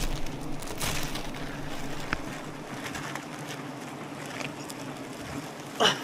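Honeybees buzzing as a steady low hum, with scattered clicks and rustles and a short sharp sound right at the end.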